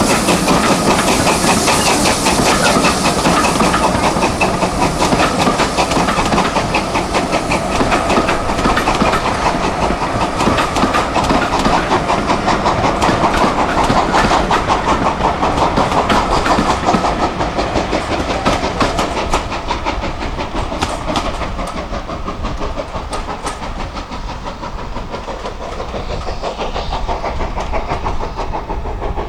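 A train running past on the line, its wheels clicking rapidly over the rail joints, fading a little about two-thirds of the way through and then building again near the end.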